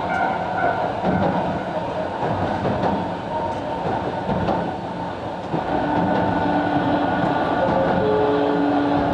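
Sangi Railway Hokusei Line 270 series narrow-gauge (762 mm) electric train running on the track, heard from inside: a steady rumble of wheels and running gear. It grows louder about five and a half seconds in, and several steady tones join it.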